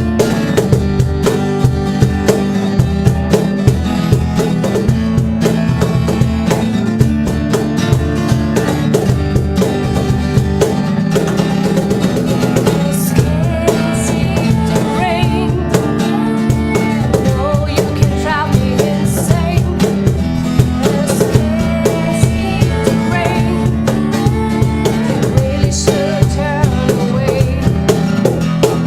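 A band playing a song: guitar over a drum kit keeping a steady beat.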